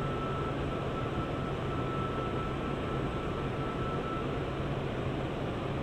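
N700S Shinkansen train giving a steady mechanical hum and rumble, with a faint steady high tone that stops about four seconds in.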